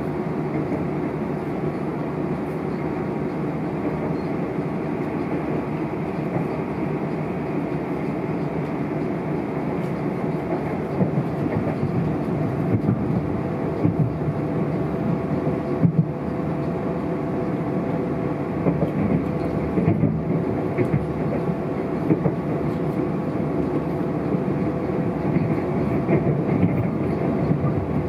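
Steady rumble of an electric multiple-unit passenger train running at speed, heard from inside the carriage, with a steady hum running through it. From about ten seconds in, the wheels give short sharp knocks every second or two as they cross rail joints and pointwork.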